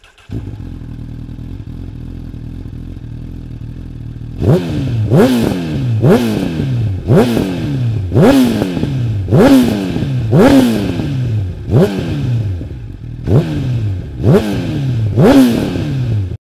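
Honda CBR1000RR Fireblade's inline-four engine idling steadily, then revved in a series of quick throttle blips, roughly one a second, each rising sharply and falling back to idle.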